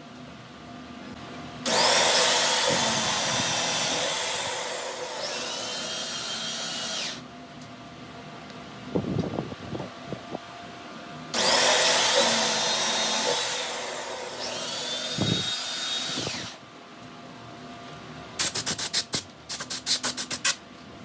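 A small electric power tool runs twice for about five seconds each, its high motor whine rising as it spins up and falling as it stops. Near the end comes a quick run of sharp clicks.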